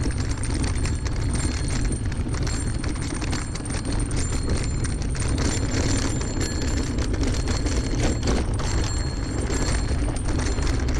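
Wind buffeting the microphone of a bicycle on a gravel track, with the tyres crunching and the bike rattling in a steady stream of small clicks and knocks.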